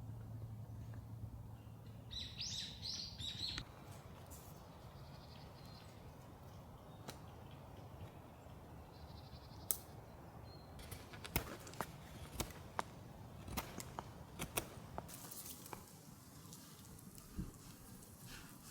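A bird gives a short run of chattering calls about two seconds in. Later comes a scattered series of sharp clicks and snaps, with a faint low hum near the start.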